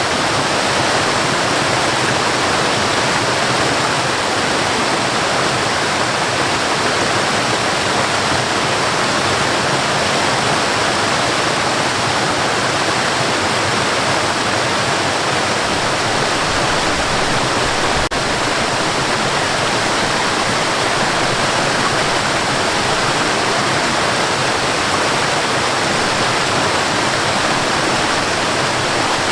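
Waterfall rushing in a steady, even roar of falling water that does not change.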